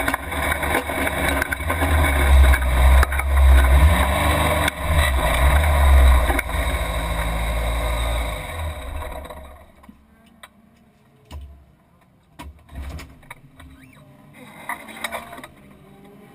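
Engine and rumble of a dirt-track race car heard from inside its stripped cabin, the engine note rising and falling under load. About eight seconds in the noise dies away as the car comes to a standstill, leaving a quiet stretch with scattered clicks and knocks.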